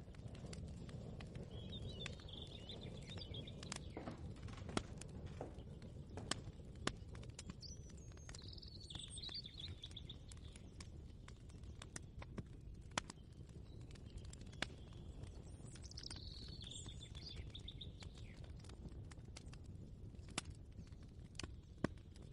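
Kitchen ambience: a steady low background hum with scattered light clicks and knocks, and a bird chirping in three short bursts.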